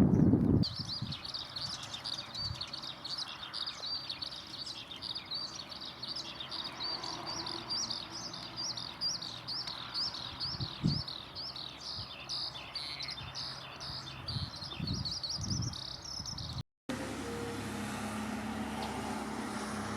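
A songbird singing a long, unbroken run of quick, high, falling notes. It stops abruptly with a cut near the end, and a steady low hum follows.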